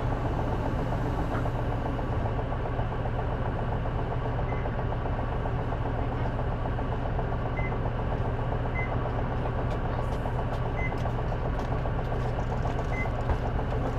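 Diesel engine of a J-Bus-built city bus idling steadily. Short high beeps sound every second or two.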